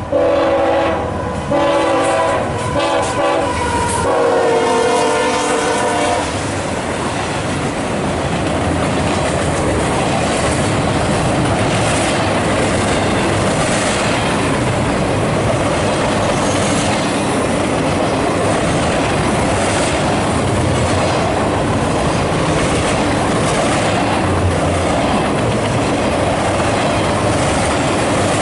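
CSX locomotive horn sounding several blasts, the last one long, ending about six seconds in. After that the loaded double-stack train rolls past steadily, wheels clicking over the rail joints.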